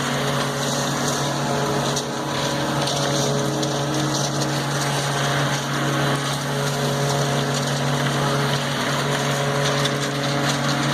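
A motor running at a steady speed, a constant low hum with overtones that does not change.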